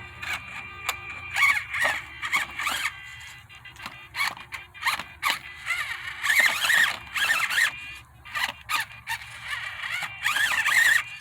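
1/24-scale Enduro24 Sendero RC crawler's electric drivetrain whining in short bursts of throttle, the pitch rising and falling with each burst, along with sharp clicks as the truck works over rocks.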